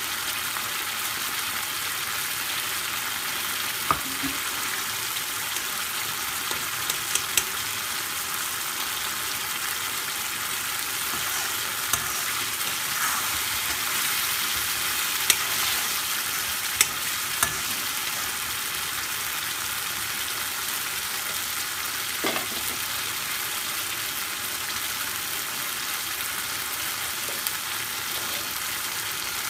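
Thick curry sizzling steadily in a black karahi, stirred now and then with a metal spatula that knocks against the pan a few times.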